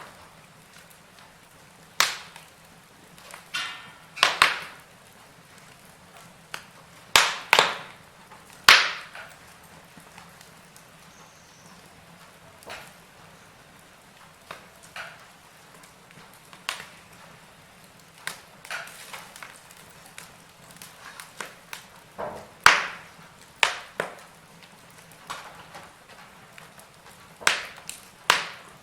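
Wood fire burning in a fireplace, crackling with irregular sharp pops, a few of them loud, over a faint steady hiss.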